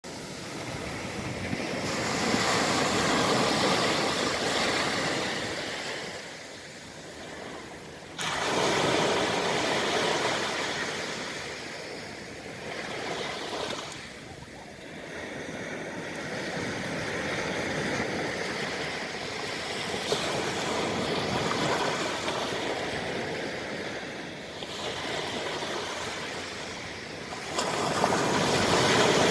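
Calm Atlantic sea waves washing up on a sandy beach, rising and falling in long, slow surges. A wave breaks sharply about eight seconds in, and the surf swells up again near the end.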